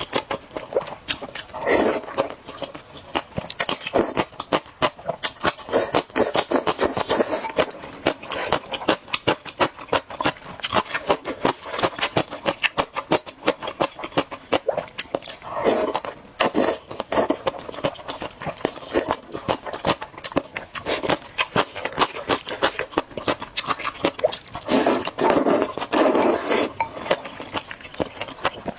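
Close-miked eating of spicy noodles: a quick run of wet mouth clicks from chewing, broken by a few louder slurps.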